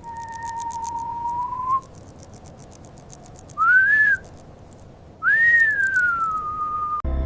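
Three clear whistled notes. The first is long and steady, rising slightly at the end. The second, about three and a half seconds in, is a short upward slide. The third, near the end, rises and then falls slowly.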